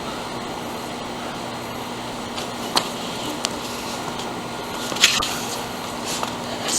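Steady outdoor background noise with a faint hum, broken by a few sharp knocks (the loudest about five seconds in) as someone climbs onto playground equipment near the camera.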